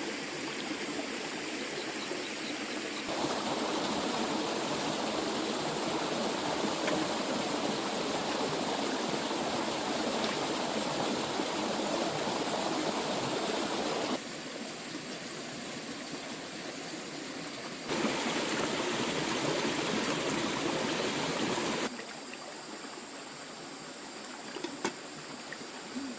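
Running water, a steady rushing hiss. It jumps louder or quieter abruptly a few times: up about three seconds in, down around the middle, up again, then down for the last few seconds.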